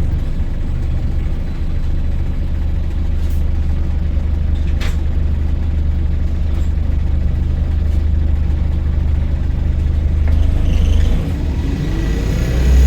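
Volvo B5LH hybrid double-decker's four-cylinder diesel engine running hard under load, heard from inside the bus as a steady low drone with a couple of light knocks. About eleven seconds in the drone drops away, then the engine revs up again with a rising whine.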